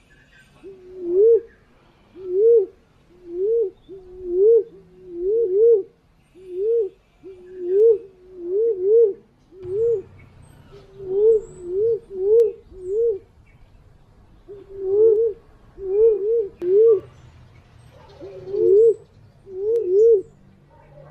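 Wild forest pigeon cooing: a long series of low, hooting coos, each note rising then falling, about one a second, some coming in quick pairs or threes. This is the punai/walik pigeon call used as a lure for bird hunting.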